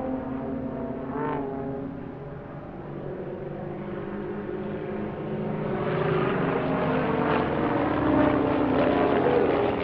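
Several light propeller aircraft flying aerobatics in formation, their piston engines droning with a shifting pitch. The sound grows louder over the last few seconds as they come closer.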